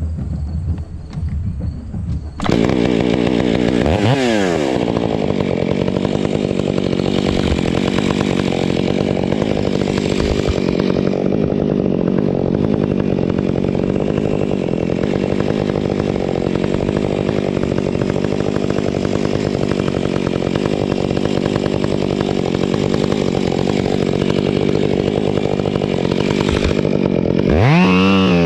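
Gas chainsaw cutting wood: it comes in suddenly about two seconds in, its revs drop as it settles into the cut, and it runs steadily under load. Near the end the engine revs up and down twice.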